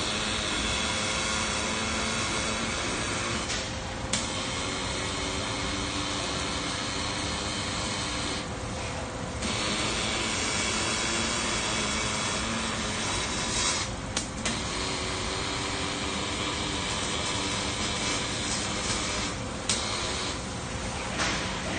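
Factory machinery running: a steady hiss with a constant hum. The high hiss drops away briefly three times, and there are a few sharp clicks.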